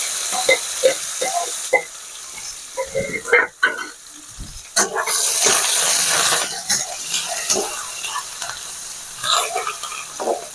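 Sliced onions and curry leaves sizzling in hot oil in an aluminium kadai, with a metal spoon scraping and knocking against the pan as they are stirred. The sizzle is loudest at first, dies down, and swells again about five seconds in.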